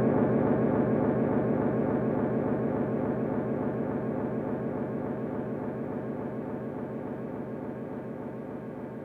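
Electric guitar through an Old Blood Noise Endeavors Black Fountain V3 oil-can delay pedal: a dense, droning wash of echo repeats that fades steadily away.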